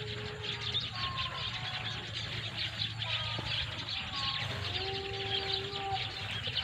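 Dense, continuous high chirping of a flock of small birds, with a low steady hum underneath. Several long held tones come in about a second in and grow stronger in the second half.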